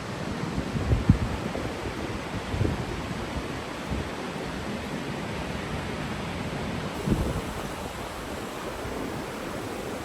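Steady rush of a fast-flowing stream, with wind buffeting the microphone in a few low gusts, the strongest about a second in and after about seven seconds.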